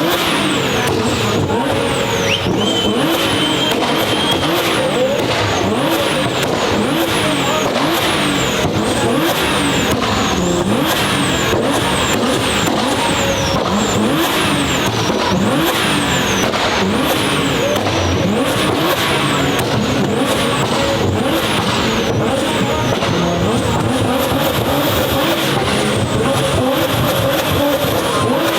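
Sports car engines revving over and over, their pitch rising and falling, over a constant loud din. High whistles fall in pitch again and again.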